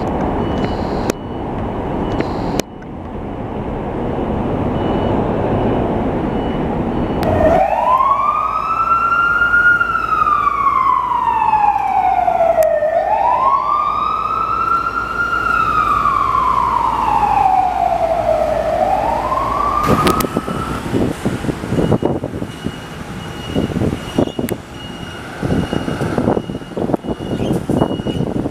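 Traffic and engine noise, then a fire engine's siren on a slow wail: it climbs quickly and falls back more slowly, about once every five to six seconds, for roughly twelve seconds before cutting off abruptly. Passing-vehicle noise follows.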